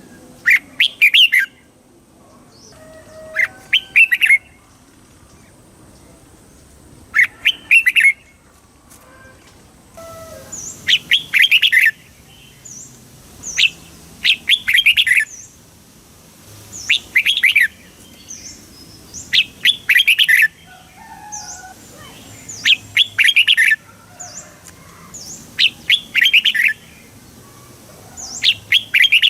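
Red-whiskered bulbul singing: short, bright whistled song phrases, each about a second long, repeated about every three seconds, roughly ten times. Fainter high chirps sound behind the phrases from about a third of the way in.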